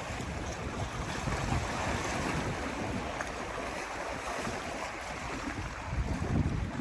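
Sea surf washing, with wind buffeting the microphone; the buffeting eases in the middle and picks up again near the end.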